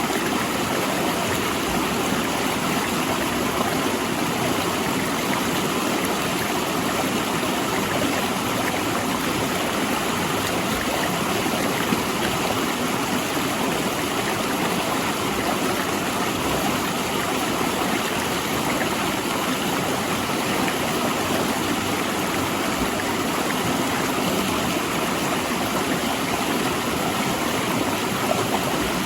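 Mountain river rushing over and between large rocks, a steady even roar of water with no let-up.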